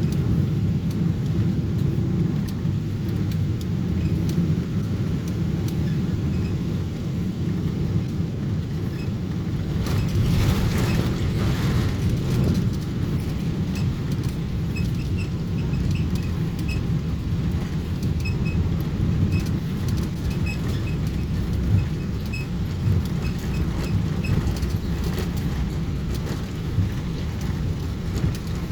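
Cabin noise of a Boeing 777-300 on its landing run or taxi: a steady low rumble of engines and wheels, with a brief rise in hissing noise about ten seconds in. Light rattling of cabin fittings follows.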